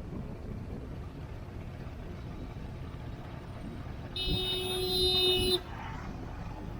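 Steady road traffic noise from a car driving along a busy road. About four seconds in, a vehicle horn sounds once, a single steady tone held for about a second and a half.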